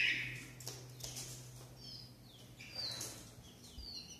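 Small cage birds chirping: short, high, falling chirps every second or so, over a low steady hum.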